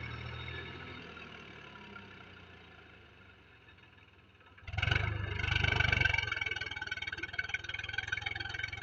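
Swaraj tractor engine running while puddling in heavy mud. It fades over the first few seconds, then cuts back in loud about halfway through and runs steadily, with a high steady whine over the engine note.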